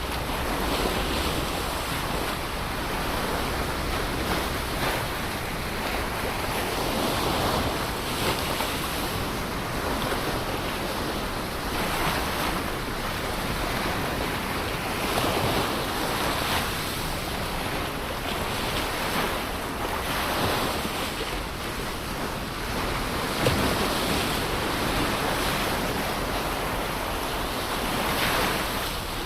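Ocean surf breaking and washing on a shore, a continuous rush with swells every few seconds, a sharper break about two-thirds of the way through, and some wind on the microphone.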